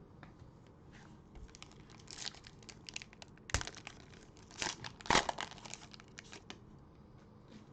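Cellophane wrapper of a trading-card cello pack being torn open and crinkled, a run of sharp crackles with the loudest snaps about halfway through.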